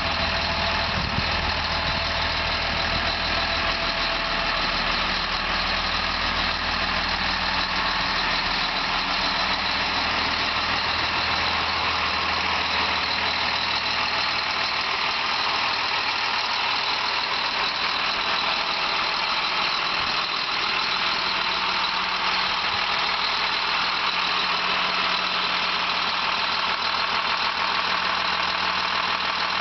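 2007 Blue Bird Vision school bus engine idling steadily.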